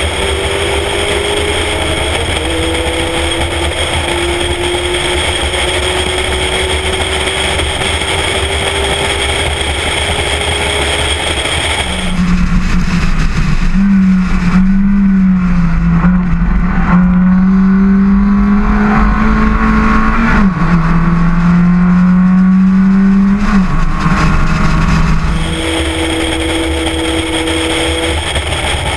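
Spec Miata race car's four-cylinder engine pulling hard on track, heard onboard, its pitch climbing slowly through each gear and stepping at several gear changes. About twelve seconds in, the sound turns louder and muffled with a strong low drone for some thirteen seconds, then returns to the brighter onboard sound.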